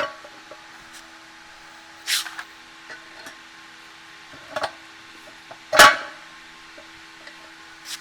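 A few scattered knocks and a short scrape, the loudest knock just before six seconds in, over a faint steady hum.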